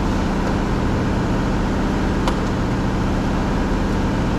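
A steady mechanical hum with a steady low tone, and a single sharp click a little past two seconds in.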